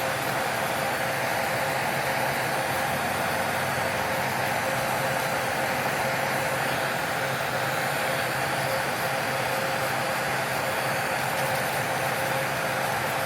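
A small electric motor of nail-care equipment runs steadily, with a constant whine over an even hiss.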